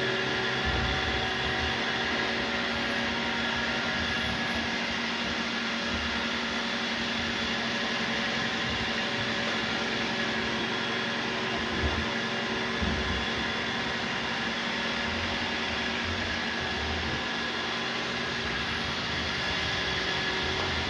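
Two Roomba robot vacuums running together: a steady whir of motors, brushes and suction with several faint steady tones, and a couple of low knocks near the middle.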